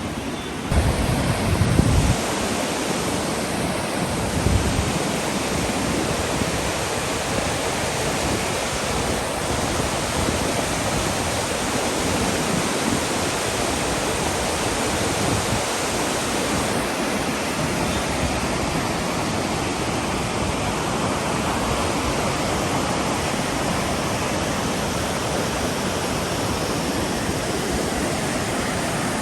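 Steady rushing roar of a fast mountain river. A few low thumps near the start are louder than the river.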